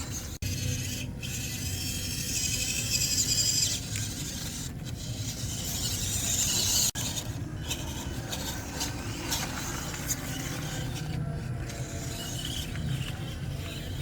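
Electric motor and gearbox of an MN99S D90 RC crawler whining as it drives, with its tyres scraping over the dirt track. The whine swells twice, around two to four seconds in and again around five to seven seconds in.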